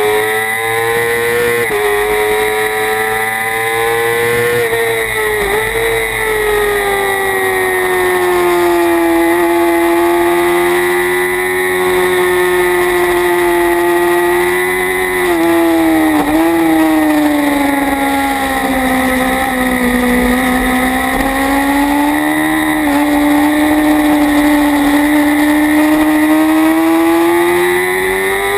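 Kawasaki Ninja ZX-6R's inline-four engine running hard under racing load, heard from the bike itself. Its high note swells and sags slowly in pitch, with a few quick sharp dips.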